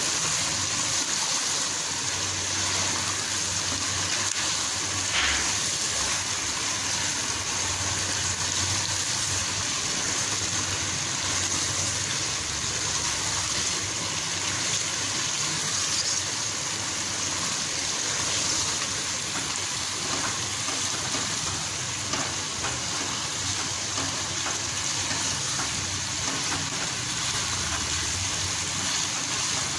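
Chicken pieces and onions sizzling steadily in oil in a pot as they are stirred with a silicone spatula, with a short knock about five seconds in.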